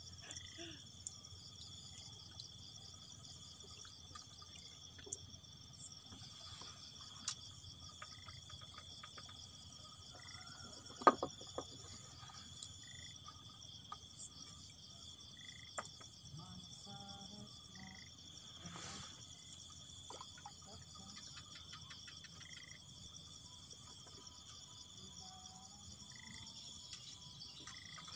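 Steady, shrill chorus of insects buzzing in a high, continuous drone, with scattered short chirps. A single sharp click about eleven seconds in.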